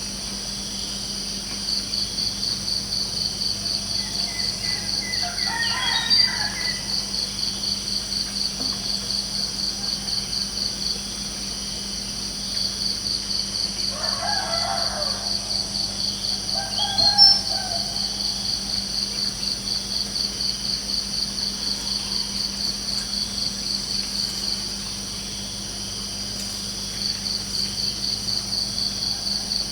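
Crickets chirping in a steady high pulsing rhythm, about three pulses a second, with short breaks. A rooster crows about five seconds in and again around fourteen seconds, and a bird gives one sharp chirp just after.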